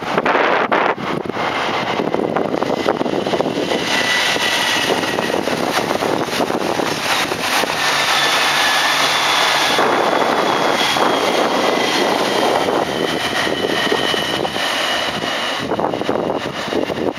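Electric train running past at the platform: a loud, steady rush of wheels on rail with a faint high whine that slowly slides in pitch.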